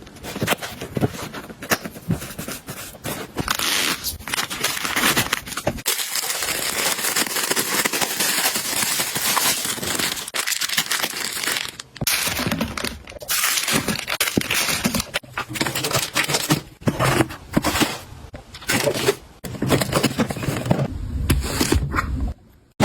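Packaging being handled and torn open, with irregular crinkling and tearing that is densest for several seconds in the middle.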